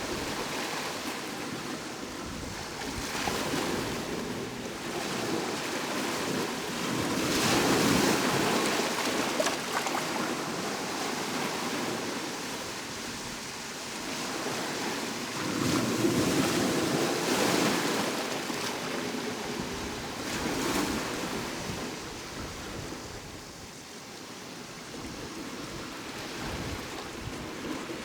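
Sea waves breaking on a shore, the wash swelling and falling back every several seconds, with the biggest surges about a quarter of the way in and just past halfway.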